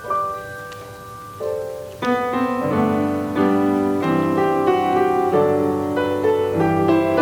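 Piano playing slow sustained notes, a few at a time, then fuller chords from about two seconds in.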